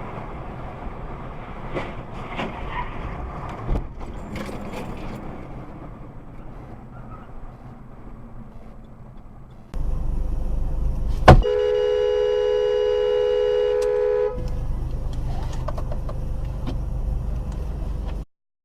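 Vehicle noise for about ten seconds, then a louder low road-and-wind rumble, a single sharp bang, and a car horn held for about three seconds before the rumble carries on and the sound cuts off.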